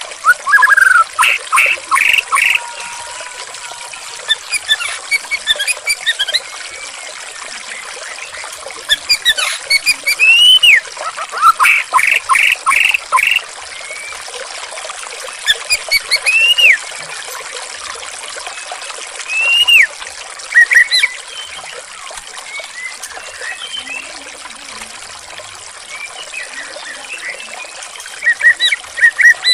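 White-rumped shama (murai batu) singing over steadily trickling water: loud phrases of rapid repeated notes and single arching whistles come every few seconds, the water running on beneath them.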